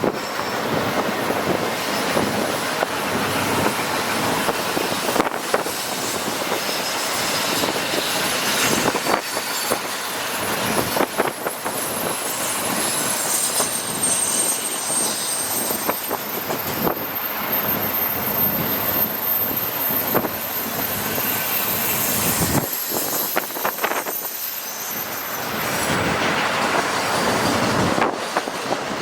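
Freight train of empty autorack cars rolling past: a steady rumble of steel wheels on rail, with scattered clicks and clanks and a faint high wheel squeal partway through.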